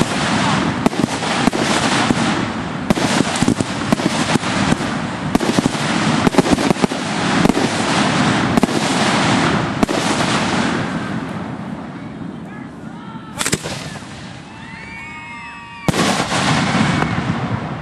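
Fireworks firing at close range from ground racks: a dense run of mortar launches and cracking bursts that thins out after about ten seconds. Then comes a single sharp report, a few high whistling glides, and a loud fresh volley near the end.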